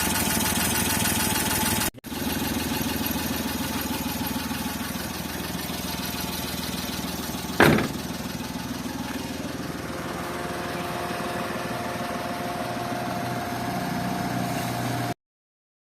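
Suzuki F6A three-cylinder multicab engine idling steadily at a low idle, just rebuilt with a new valve set and valve guides. The idle is low enough that the engine rocks on its mounts. A brief dropout comes about two seconds in, a short sharp sound about halfway through, and the sound cuts off suddenly near the end.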